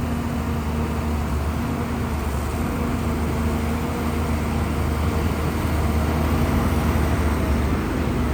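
Shantui bulldozer's diesel engine running steadily under work, a deep continuous drone with a fainter steady hum above it.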